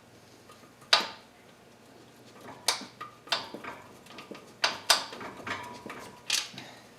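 Sharp metallic knocks and clanks of hand tools against metal, about seven irregular strikes, the loudest about a second in.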